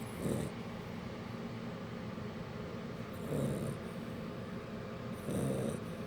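Shar pei puppy snoring in its sleep: three short snores, one right at the start, one about three and a half seconds in and one near the end, over a steady low hum.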